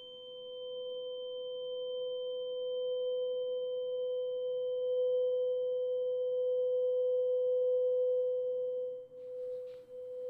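A single steady pure tone, like a tuning fork or sine tone, held on one pitch with faint higher overtones. It swells over the first few seconds, holds, then dips and wavers near the end.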